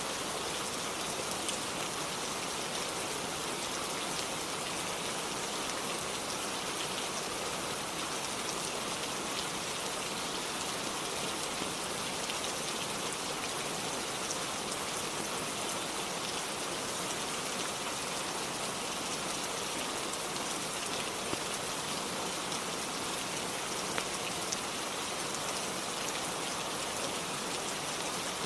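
Steady rain on a roof: an even, unbroken hiss with a few faint sharp ticks scattered through it.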